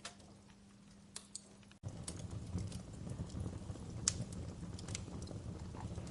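Wood fire crackling, with scattered sharp pops over a low background. About two seconds in, the sound cuts out for an instant and resumes louder, with a low rumble under more frequent crackles.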